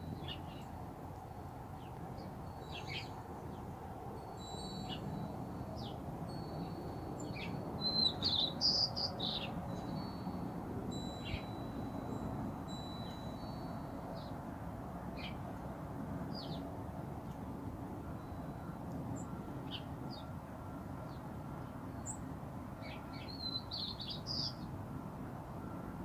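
Small birds chirping in short, high calls, with a louder flurry of chirps about eight seconds in and again near the end, over a steady low background hum.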